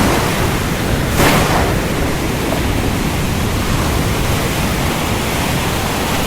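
Steady, heavy rain making a dense, even hiss, with a brief louder swell about a second in.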